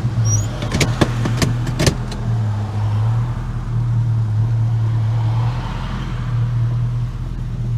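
Holden HK's engine running steadily as the car pulls forward, heard from inside the cabin, with a few sharp clicks in the first two seconds.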